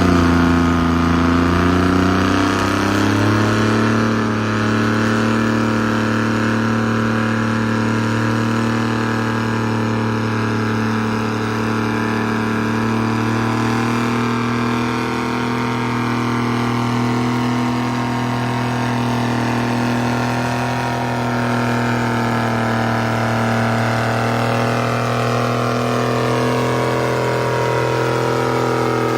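Antique tractor engine running: it picks up speed over the first couple of seconds, then holds a steady, even pitch.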